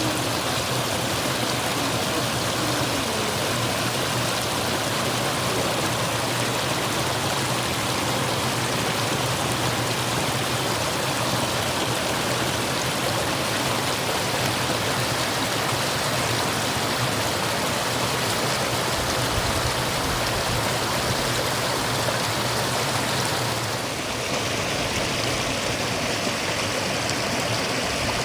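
Stream water murmuring and rushing steadily. About 24 seconds in, the sound shifts, with less hiss at the top.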